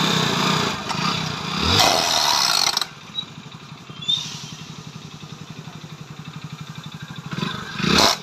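Motorcycle revved for about three seconds, loud and harsh, then dropping to an idle with an even beat, with a short rev just before the end. It is shown as the rattle of a worn chain-and-sprocket kit whose sprocket teeth are cut, which is heard when the bike is accelerated.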